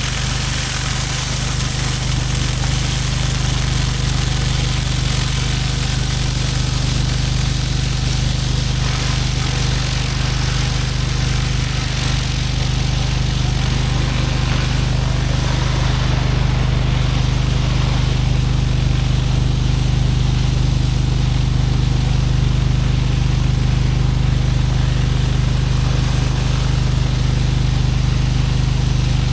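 Gas-engine pressure washer running steadily at full throttle, with the even hiss of the surface cleaner's water jets on a concrete driveway.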